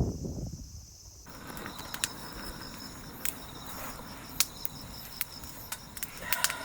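Crickets chirping in a steady, pulsing chorus after a cut about a second in, with a handful of sharp, scattered clicks, likely from a wood fire crackling.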